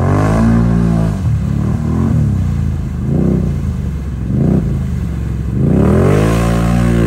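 ATV engine revving under throttle, its pitch rising and falling: a climb at the start, three short blips, then a long rise near the end.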